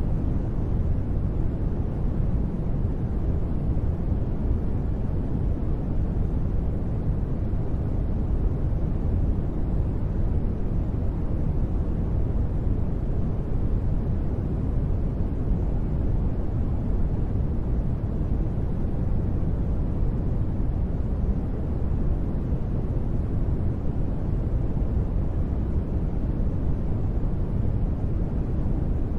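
Steady, unchanging sleep noise with a deep tone: most of it is a low rumble, with little high hiss and no breaks or sudden sounds.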